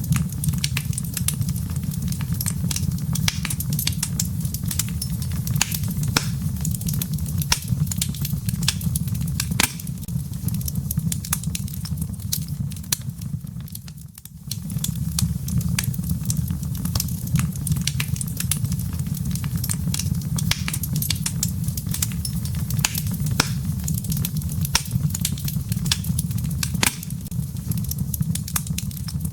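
Wood fire burning in a fireplace, crackling with frequent sharp pops and snaps over a steady low rumble of the flames. The sound briefly dips about halfway through.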